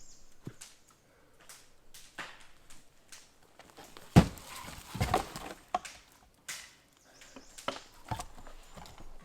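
Irregular knocks and thuds, the loudest about four seconds in.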